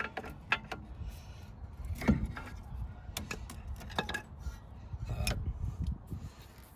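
Scattered clicks and sharp knocks of hand tools and metal brake parts being handled, with the loudest knocks about half a second, two seconds, four seconds and five seconds in.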